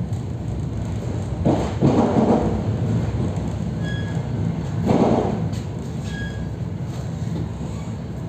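EP3D electric multiple unit running on the rails, heard from inside the carriage. There is a steady low hum, with heavy thuds and rumbles about one and a half to two and a half seconds in and again around five seconds.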